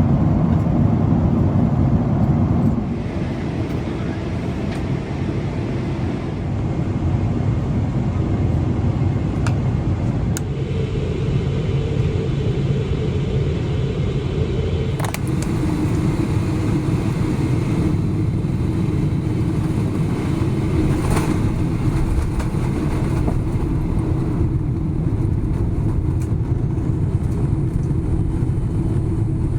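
Cabin noise aboard a Boeing 777-300ER: a loud, steady low rumble from its GE90 engines and the airframe. The rumble drops a little about three seconds in, and a steady low hum joins about halfway through.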